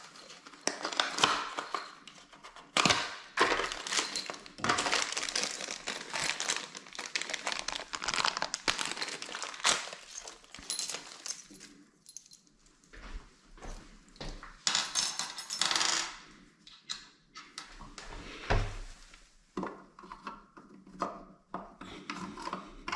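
Small metal hardware clinking and clattering, with knocks and some rustling, as toilet bolts, washers and nuts are handled and fitted.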